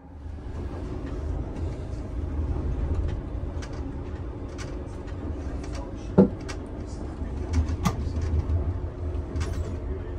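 Running noise of a moving sleeper train heard inside a sleeping-car compartment: a steady low rumble with light rattles and clicks. A sharp knock about six seconds in, and a smaller one near eight seconds.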